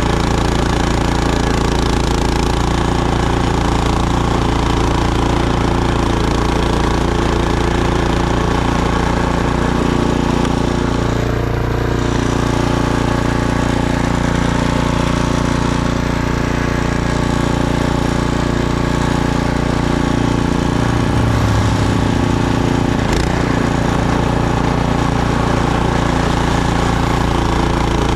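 Snowblower engine running steadily as the machine throws snow. Its note shifts slightly about two-thirds of the way through.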